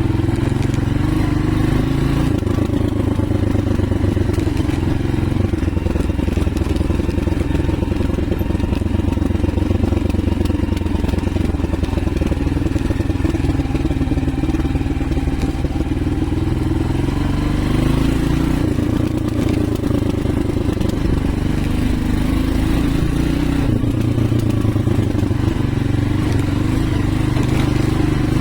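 AKT TTR 200 dual-sport motorcycle's single-cylinder four-stroke engine running while ridden, its pitch rising and falling several times with the throttle.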